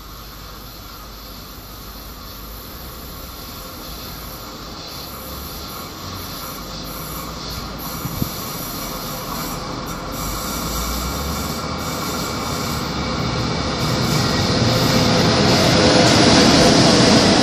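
Train headed by two DB class 151 electric locomotives approaching and passing. Its running noise grows steadily louder, from a faint rumble to a loud rush of wheels on rail as the locomotives go by near the end.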